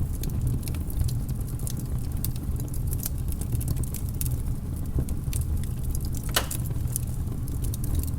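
Wood fire crackling in a fireplace: irregular sharp pops over the steady low sound of the flames, with one louder, longer pop a little past six seconds in.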